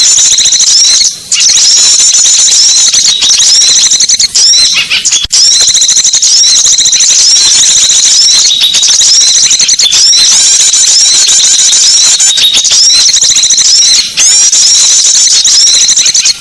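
Small-bird lure recording: many small birds chirping and squeaking together in a dense, high-pitched, loud chorus, broken only by a few brief gaps.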